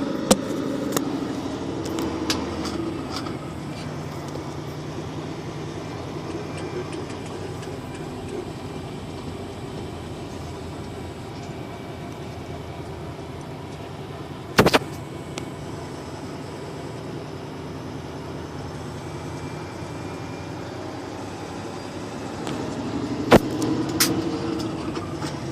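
Motor vehicles running on the highway: a steady engine hum and road noise, broken by a few sharp cracks, the loudest about halfway through and two more near the end.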